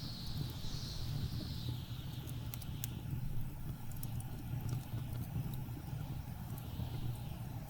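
Blizzard wind with a steady low rumble, and a gust that hisses at the start and dies away over the first couple of seconds. Sparse sharp crackles and pops of burning wood in a fireplace.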